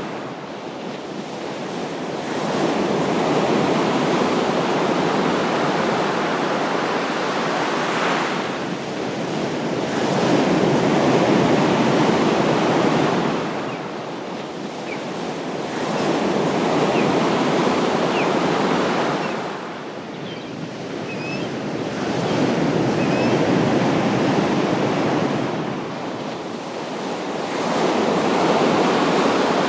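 Ocean surf breaking, the waves swelling and falling back in a slow rhythm of about one every six seconds.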